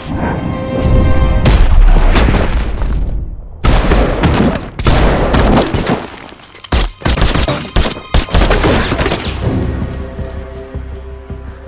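Film soundtrack of heavy, rapid gunfire in dense volleys with brief pauses, thinning to scattered shots near the end, over an action music score.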